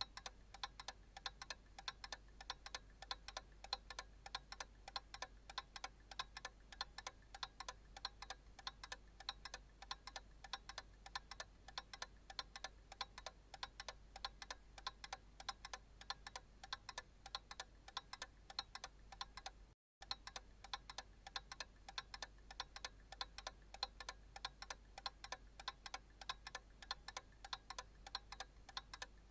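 Analog clock ticking: steady, evenly spaced sharp ticks, broken by a brief dropout about twenty seconds in.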